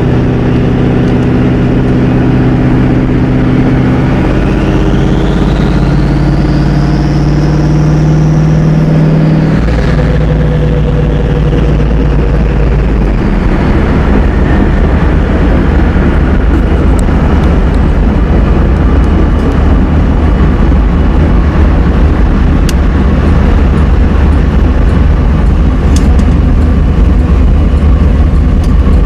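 Twin-turbo LS1 V8 of a Pontiac Trans Am running while driving; a high whistle rises and then falls in pitch between about four and ten seconds in. After about ten seconds the engine note changes to a deeper, steady sound.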